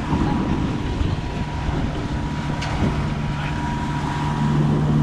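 Catamaran's engine running with a steady low hum while manoeuvring to moor, setting in about a second in and growing louder near the end, with gusty wind buffeting the microphone.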